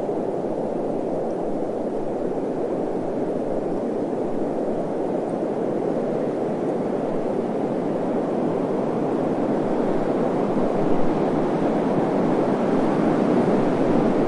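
Steady desert wind, an even low rushing noise that swells a little near the end.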